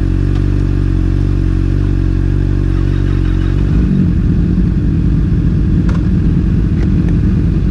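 Sport motorcycle engine idling steadily; about four seconds in the sound turns rougher and choppier and a little louder.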